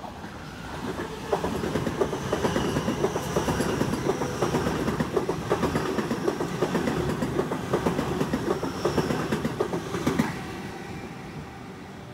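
Sydney Trains Tangara electric train running past the platform, its wheels clattering over the rail joints with a faint high whine above. The sound builds about a second in, holds for about nine seconds and drops away suddenly as the last car clears.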